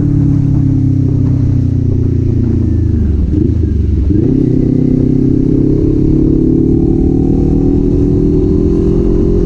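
Kawasaki Z400 parallel-twin engine on the move. Its note falls for about three seconds, changes briefly around three and a half seconds in as the rider shifts or blips the throttle, then climbs steadily as the bike pulls away under throttle.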